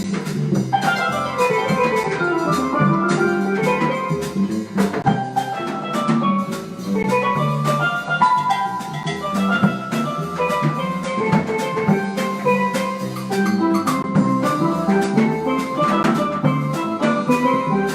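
Live jazz from a small band: a harp playing quick rising and falling runs of plucked notes, over steady drum hits.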